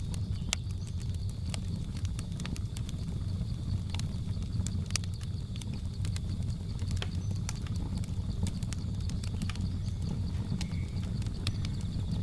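Wood fire crackling, with irregular sharp pops and snaps over a steady low rumble of burning. Behind it, a steady high insect drone of jungle ambience and a brief chirp near the end.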